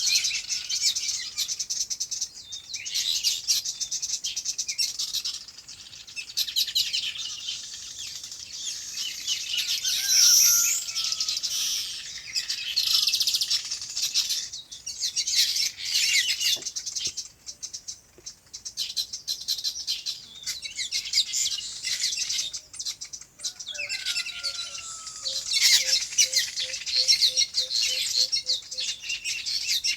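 A dense chorus of small birds chirping, many high calls overlapping, with a brighter sweeping call about ten seconds in. Near the end, a lower bird call repeats as a run of about ten evenly spaced notes.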